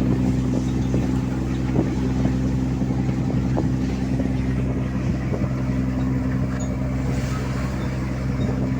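A fishing boat's engine running at a steady, unchanging speed, with a few faint knocks in the first few seconds.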